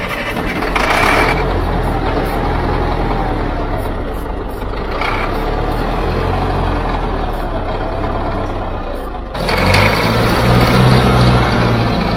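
Engine of a 1950s Caterpillar loader running steadily, growing louder from about nine seconds in.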